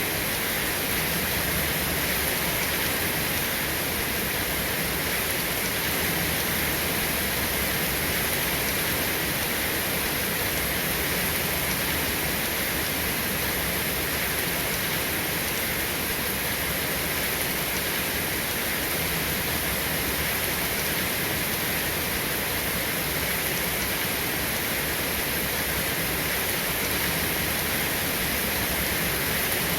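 Steady rain falling, an even hiss that does not change, with no thunder claps.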